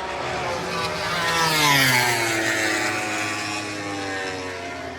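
A MotoGP racing motorcycle passing at high speed. The engine note swells to a peak a little under two seconds in, then drops in pitch and fades as the bike goes by.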